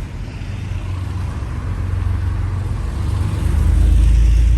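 Low outdoor rumble that swells louder about three and a half seconds in.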